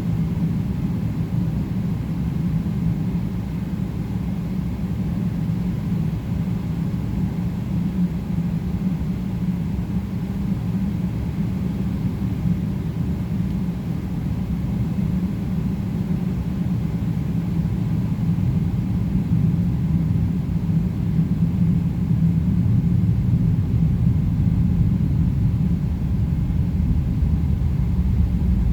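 Cabin noise of a Boeing 777-300ER on the ground before takeoff, its GE90 engines at idle: a steady low rumble that grows a little louder in the last third.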